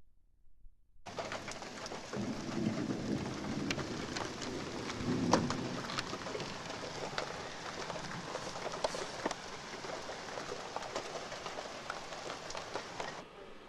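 Thunderstorm: rain falling hard, with many sharp drop ticks close by, starting suddenly after about a second of near silence. Low rumbles of thunder swell about two seconds in and again around five seconds, the second being the loudest moment.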